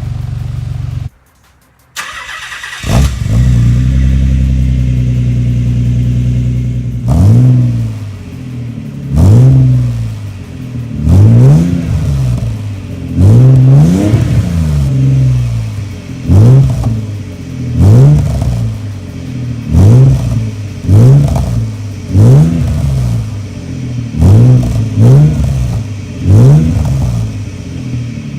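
Nissan 300ZX Twin Turbo's 3.0-litre V6 exhaust, with the catalytic converters gutted and the middle muffler cut out, running steadily. After a brief break about a second in, it picks up again and then takes about a dozen quick throttle blips, each revving up and falling back.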